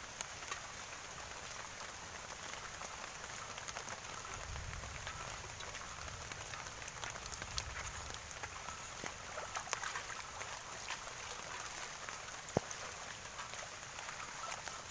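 Heavy rain falling steadily, a dense hiss with many individual drops ticking. One sharper knock comes near the end.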